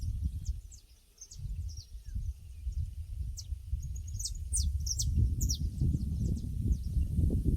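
Outdoor pasture ambience: small birds give short, high, quick chirps scattered throughout, over a louder low rumbling noise that fades out for about a second early on.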